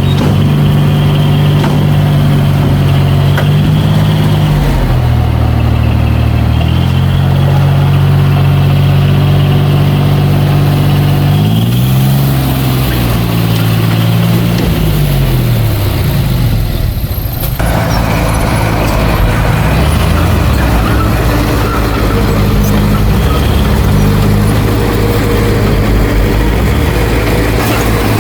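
Heavy earthmoving machine's diesel engine running loud and steady, its revs dipping and rising a few times around the middle.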